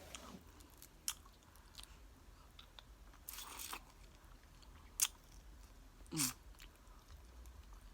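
Faint mouth sounds of eating tortilla-chip nachos: a few scattered crisp crunches and bites with chewing, the sharpest about five seconds in.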